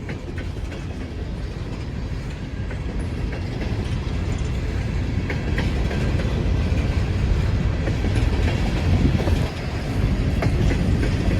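Empty coal cars of a long freight train rolling past, wheels rumbling and clicking over the rail joints as the train picks up speed, the sound growing gradually louder.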